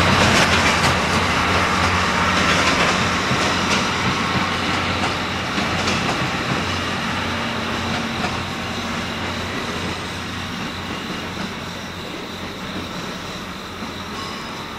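Passenger coaches of an arriving overnight express train rolling past, their wheels clicking over rail joints. The rumble and clicking fade gradually as the train slows into the terminal.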